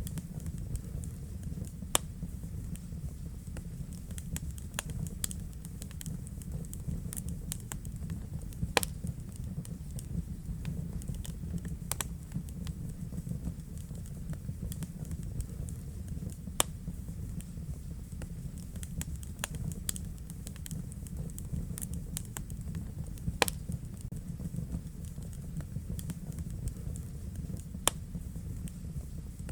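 Wood fire burning in a fireplace: a steady low rumble of flames with irregular sharp crackles and pops, a few louder snaps standing out among them.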